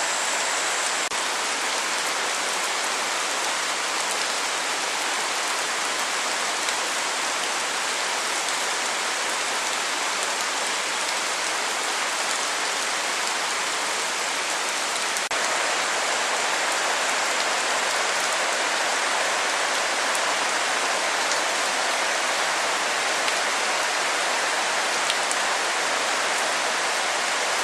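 Light tropical rain falling in a steady, even hiss of drops, growing slightly heavier about halfway through.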